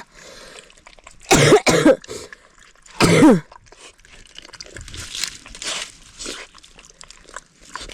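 A man coughing: two sharp coughs about a second and a half in, then a third, longer cough with a falling pitch about three seconds in, from a sore throat. Faint soft crunching follows.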